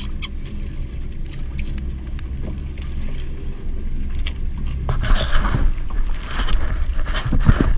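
Boat's engine running with a steady low hum, under scattered light clicks; about five seconds in, a louder rough rush of water and wind noise comes in over it.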